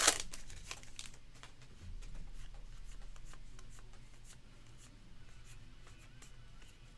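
Baseball trading cards being flicked through and slid against one another in the hands, a run of light quick card rustles that grow fainter, with a brief loud crinkle of a pack wrapper right at the start.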